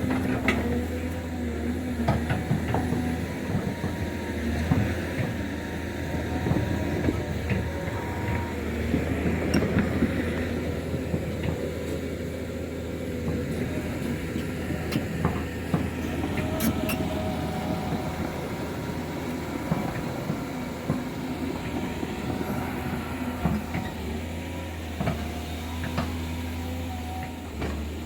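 Heavy tracked earthmoving machine running, its engine a steady low drone, with metal clanking and occasional squeals from its steel parts as it works soil.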